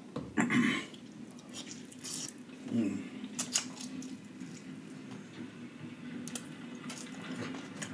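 Close-miked wet chewing and lip-smacking of soft, sauce-soaked deshelled seafood eaten by hand, with squishy mouth sounds and scattered sharp wet clicks. A brief murmur of the voice comes near the start and again about three seconds in.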